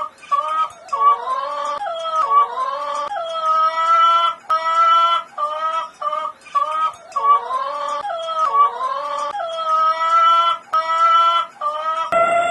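A dog whining and howling in high-pitched calls: runs of short cries broken by longer calls that fall in pitch. The same sequence of calls repeats about three times.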